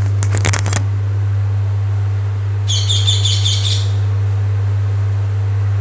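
A short run of high, quickly repeated bird chirps about three seconds in, over a steady low hum. A few sharp clicks come near the start.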